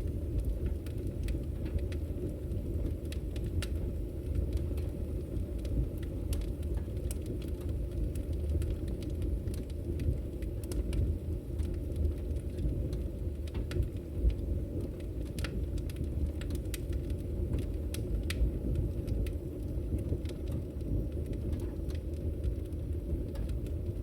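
Wood fire burning: a steady low rumble with scattered sharp crackles and pops from the burning logs.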